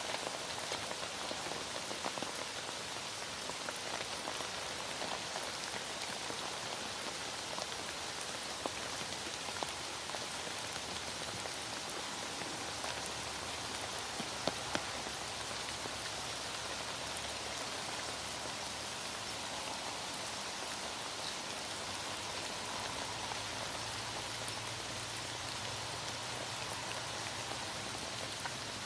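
Heavy rain falling steadily, with scattered drops ticking and a couple of sharper drop hits about halfway through.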